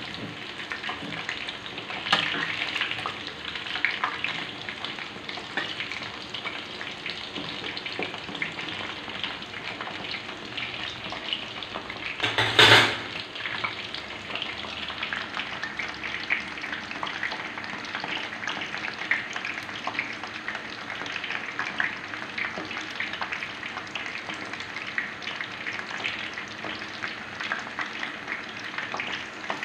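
Ketupat palas, leaf-wrapped rice parcels, deep-frying in hot oil in a wok: a steady crackling sizzle, with a metal ladle basting oil over them at the start. A brief louder burst comes about twelve seconds in.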